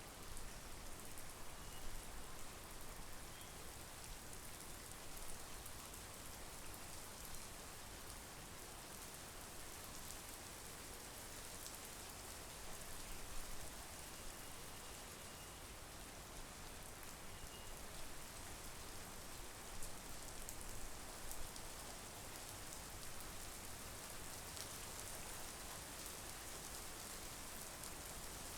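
Steady monsoon rain falling as a dense, even hiss, with scattered close drops ticking and a few single louder drop impacts.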